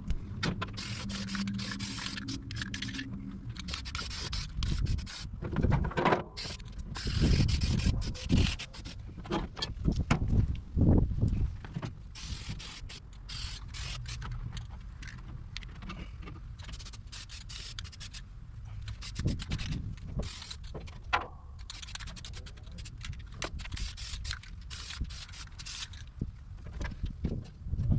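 Aerosol spray-paint cans hissing in short passes, mixed with irregular rubbing, scraping and knocks against the car's sheet metal from someone moving about inside an empty engine bay. The heaviest knocks fall between about five and twelve seconds in, with another near twenty seconds.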